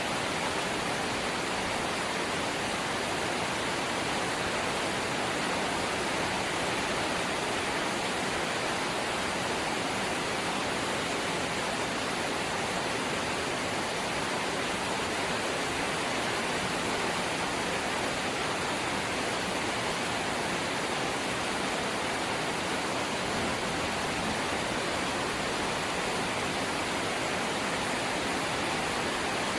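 Steady light rain: an even hiss with no single drops or taps standing out.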